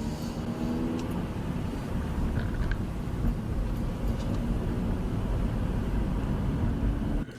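Steady vehicle engine and road noise from a dashcam recording, with a faint pitched engine hum in the first second. It cuts off suddenly near the end.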